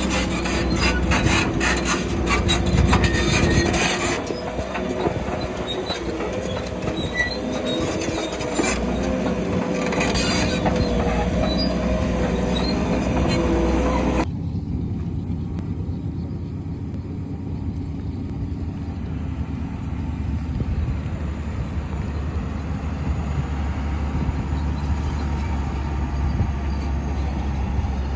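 Shantui crawler bulldozer working, its steel tracks squealing and clanking over its diesel engine, with the clanking thickest in the first few seconds. About 14 seconds in the sound changes abruptly to a steady low engine rumble.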